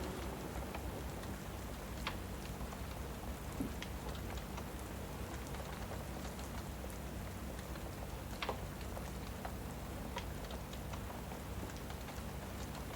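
Steady rain with a low rumble, and scattered sharp crackles and pops from a wood fire, about one every second or two.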